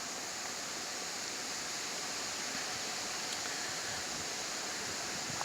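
Steady, even hiss of outdoor background noise, with no distinct sounds in it.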